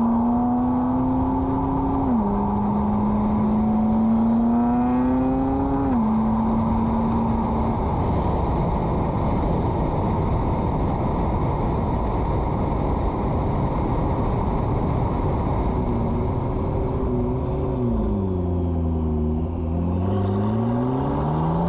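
McLaren MP4-12C's twin-turbo V8 with a modified exhaust, driven hard through the gears: the engine note climbs and drops at upshifts about two and six seconds in. It then gives way to a steady rush of engine and road noise, and near the end the note dips and climbs again.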